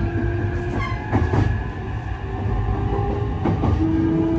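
Interior running sound of a JR East E531 series electric commuter train: steady rumble of wheels on rail with a pitched traction-motor whine that grows louder near the end, and a few short rail-joint knocks.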